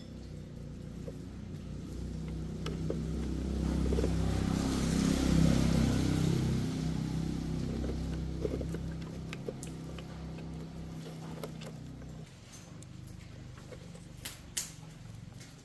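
A motor vehicle running, growing louder to a peak about five seconds in and then fading away, with a few sharp clicks near the end.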